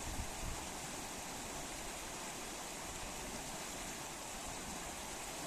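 River water flowing: a steady, even rush of water with no changes, the river carrying snowmelt. A brief low buffet right at the start.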